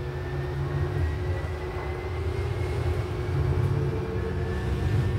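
Light-rail train car running, heard from inside: a steady low rumble with a faint high whine that rises slowly in pitch.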